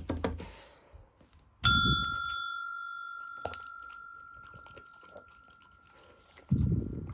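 A single bright metallic ring, struck with a thud about one and a half seconds in, that slowly dies away over several seconds. A burst of low rustling comes near the end.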